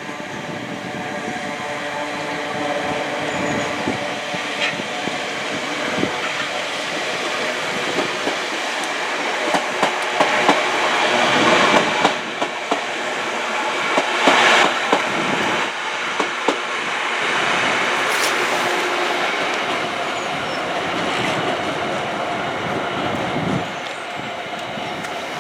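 Passenger train passing along the main line, wheels clacking over rail joints and points. The clatter builds to its loudest in the middle and then eases off as the train runs on.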